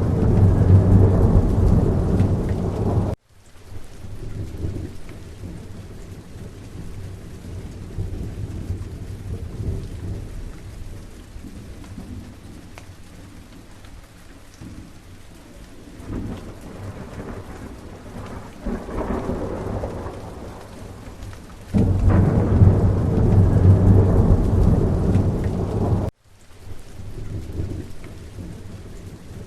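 Steady rain falling with rolling thunder. A long, loud, deep rumble at the start cuts off suddenly about three seconds in. A softer rumble follows in the middle, and another loud rumble starts about 22 seconds in and cuts off suddenly about four seconds later.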